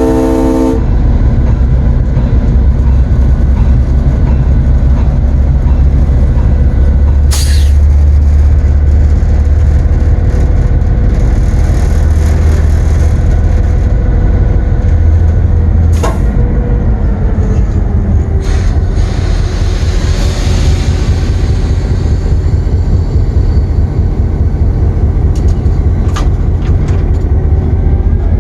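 Locomotive engine running with a steady, loud low rumble inside the cab. The horn cuts off in the first second, a few sharp knocks come through, and a burst of air hiss rises about two-thirds of the way through, in keeping with the air brakes being worked during a brake test.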